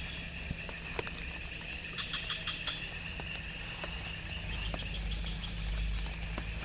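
Steady chorus of forest insects with a few scattered clicks and ticks; a low rumble comes up about two-thirds of the way in.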